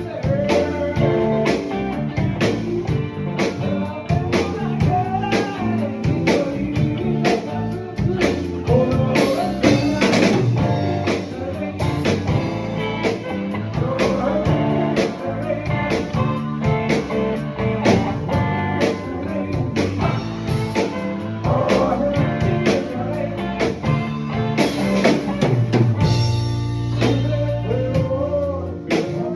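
Band playing a slow blues-rock song: electric guitar over bass and a drum kit keeping a steady beat.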